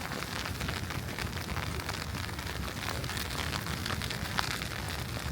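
Snowy city street ambience: a steady hiss full of fine crackles, like wet snow or slush, over a low rumble.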